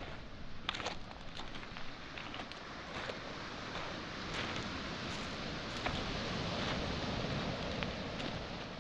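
Footsteps crunching and clicking over beach pebbles and small boulders, against the steady wash of waves breaking on a pebble shore that swells a little past the middle.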